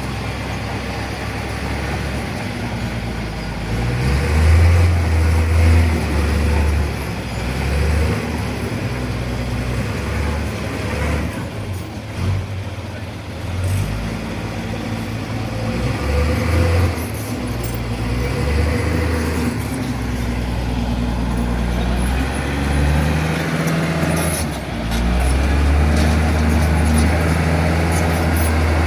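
Mitsubishi Canter dump truck's diesel engine revving up and down repeatedly under heavy load, with the fully loaded truck bogged down in soft ground. It is loudest about four seconds in and again over the last few seconds.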